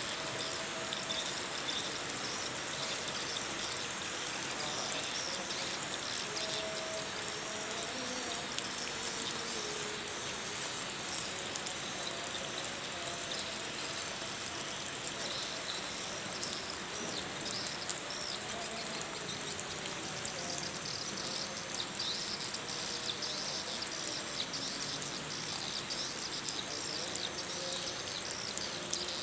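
A flock of swiftlets twittering: many short, high chirps overlapping continuously over a steady outdoor hiss.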